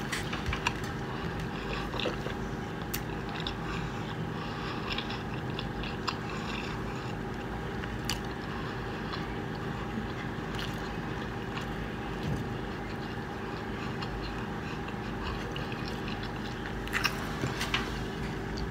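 Close-miked chewing of a bite of pizza, with small wet mouth clicks, over a steady low hum.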